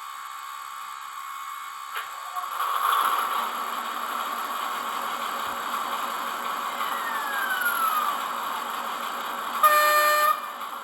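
Zimo digital sound decoder in a Roco H0 model of an ÖBB 2067 diesel shunting locomotive, playing through its small loudspeaker. The diesel engine sound runs steadily, gets louder about two and a half seconds in as the locomotive powers up, and ends with one short horn blast near the end, the loudest sound.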